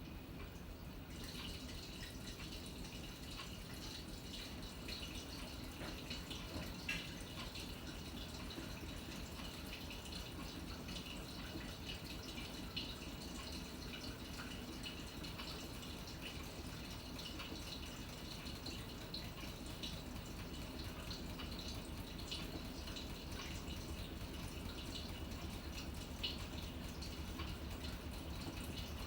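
Water trickling and splashing inside the tub of a Panasonic NA-FA100H9 top-loading washing machine during its wash cycle, over a steady low hum from the machine. The trickling comes up about a second in and then keeps on steadily.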